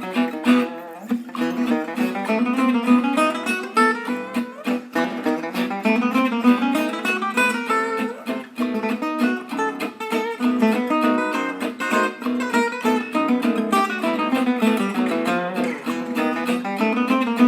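Background music: acoustic guitar played with fast plucked and strummed notes.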